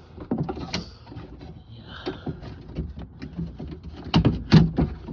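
Clicks and knocks of a 2004 Honda Pilot's door latch and lock actuator assembly being tilted and pulled down out of the door cavity, with a cluster of louder knocks about four seconds in.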